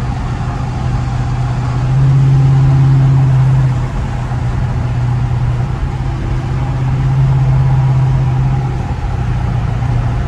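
Straight-piped Dodge Charger R/T V8 exhaust droning steadily while cruising, heard from inside the cabin with the windows up. It swells louder about two seconds in, eases off, and swells again later on.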